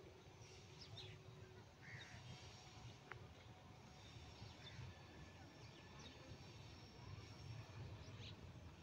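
Near silence: faint outdoor background with scattered faint bird chirps and calls, and no train passing.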